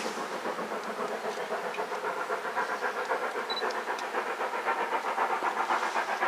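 Steam locomotive working, its exhaust beats coming in a rapid, regular rhythm with hiss, growing louder toward the end.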